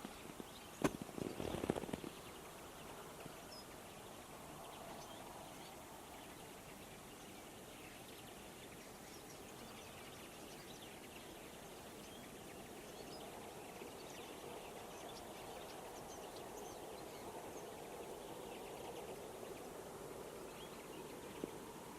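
Flock of common linnets and European greenfinches twittering and singing faintly, heard as scattered high chirps over a low steady background hum. About a second in there is a sharp click followed by a short burst of knocking.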